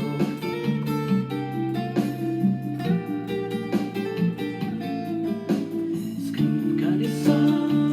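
Guitar music with no singing: plucked and strummed strings playing a steady run of notes.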